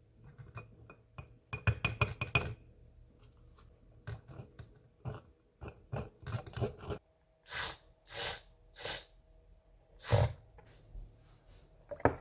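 Dishes and glassware clinking and knocking against each other and a countertop, with a quick cluster of light ringing clinks near the start and a few short scuffing or swishing sounds later.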